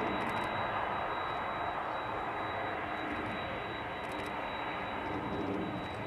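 Jet airliner engines running, a steady engine noise with no sharp changes.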